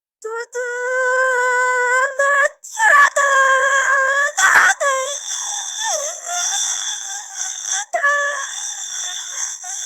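A synthetic AI voice making wordless, high-pitched vocal sounds: two long, nearly steady held notes of about two seconds each, then a wavering, less distinct voice to the end.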